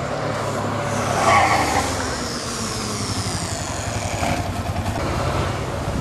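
Single-cylinder four-stroke trail motorcycle engine running, its pitch falling away over the first few seconds.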